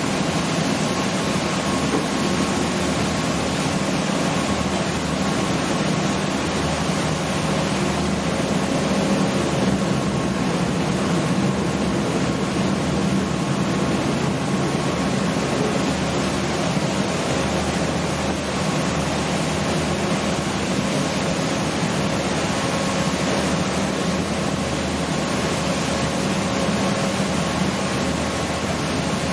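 Passenger ferry's engines running steadily with a constant hum, over a loud rush of water and wind.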